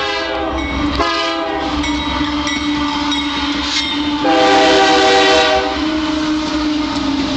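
Freight train passing close by with a steady low rumble while its locomotive horn sounds in blasts: a short one about a second in and a longer, louder one about four seconds in.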